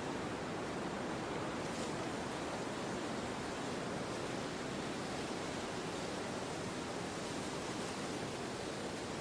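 Steady wind, an even rushing without gusts or other events.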